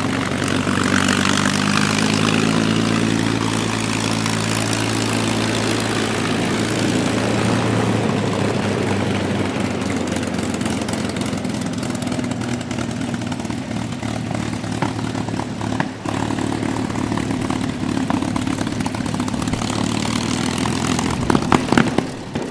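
Packard V-1650 supercharged Merlin V-12 of a P-51D Mustang running steadily on the ground at low speed, its propeller turning. Near the end there are a few sharp pops and the sound drops away.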